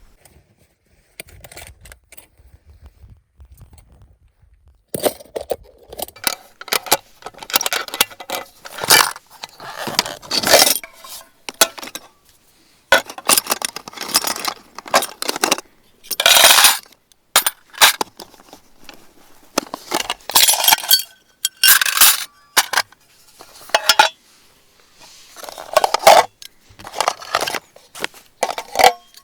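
Hard objects, largely metal, clinking and clattering as they are handled: repeated sharp knocks and clinks in quick irregular runs, starting about five seconds in.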